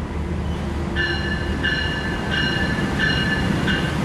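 Diesel-electric locomotive rolling slowly along a station platform, a steady low engine rumble, with a high ringing tone that repeats about every two-thirds of a second, five times, from about a second in.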